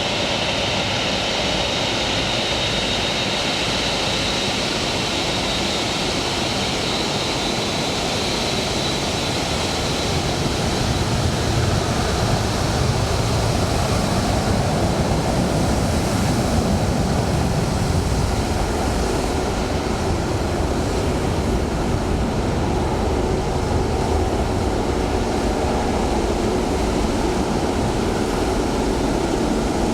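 Jet airliner engines running at an airport. A high steady whine fades out over the first third, and a deeper rumble grows louder from about a third of the way in.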